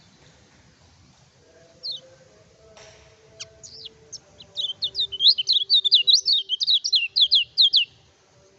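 Kecial kuning, a small yellow white-eye, singing: a few scattered high down-slurred notes, then, from about halfway, a fast run of sharp descending chirps, several a second, that stops shortly before the end.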